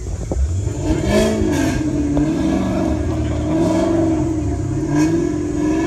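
A car engine running close by, its pitch rising and falling as it is revved.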